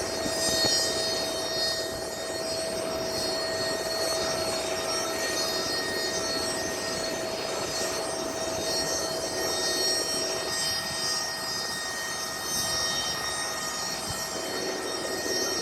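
Aircraft engine running steadily: a constant rushing noise with a steady whine held through it.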